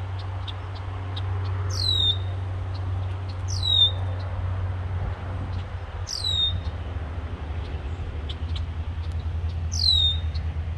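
A bird calling four times, each call a short high whistle that falls steeply and ends in a little hook, with quick high chip notes between the calls. A steady low rumble runs underneath.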